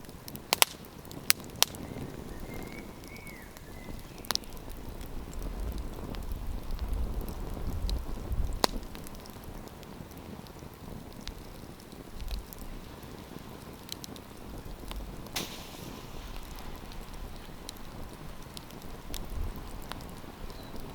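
Wood campfire crackling: scattered sharp pops and snaps over a soft, steady rush of burning, with a low rumble swelling for a few seconds around the middle.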